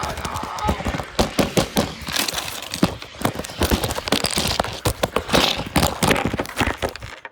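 A dense, irregular clatter of many hard objects falling and crashing, with a run of louder hits between about one and two seconds in.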